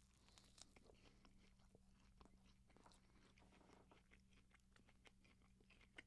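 Faint chewing and wet mouth clicks close to the microphone as chewy, honey-soaked Greek doughnuts (loukoumades) are eaten, over a low steady hum.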